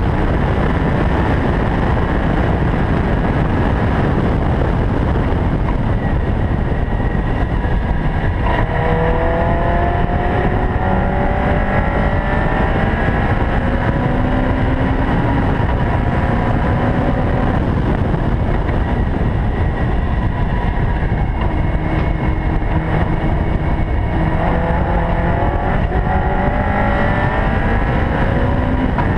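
Caterham R500 at speed on track, its engine note climbing in pitch as it accelerates hard, most clearly from about a third of the way in and again near the end, over a loud, steady rumble.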